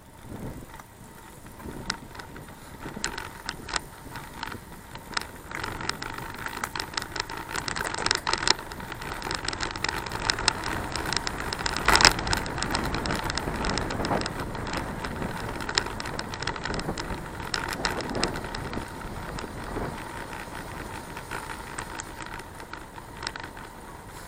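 A bicycle being ridden, its frame and fittings rattling and clicking over bumps in the road, with steady rolling and wind noise that swells through the middle and a sharp knock about halfway through.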